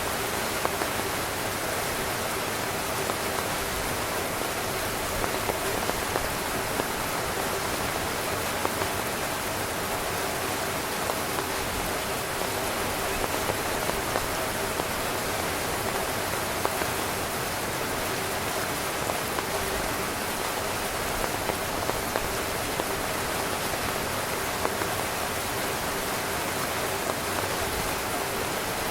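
Steady rain falling on a tent: an even hiss with scattered louder drop taps, over a faint steady hum.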